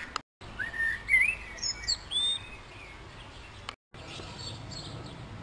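A songbird singing one short phrase of quick whistled notes that glide up and down, over a steady outdoor background hiss. The sound cuts out completely twice for a moment.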